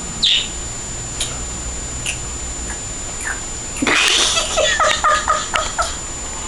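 Pet bird calling: scattered short chirps, then a loud harsh call about four seconds in followed by a quick run of chirps.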